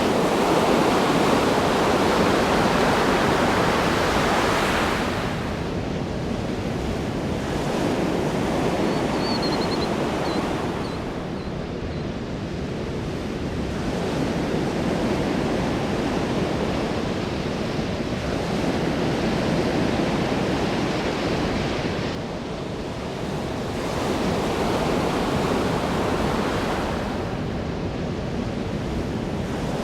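Ocean surf washing onto a shore: a continuous rushing noise that swells and eases in slow surges, several seconds apart.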